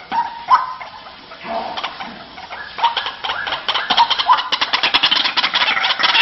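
White-breasted waterhen calling: scattered harsh notes that quicken from about three seconds in into a fast rattling run, growing louder toward the end.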